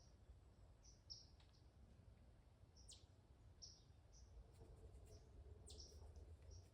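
Faint, short, high bird chirps, about ten scattered irregularly, two of them (about three seconds in and near the end) sharper calls sweeping downward in pitch, over a low steady rumble.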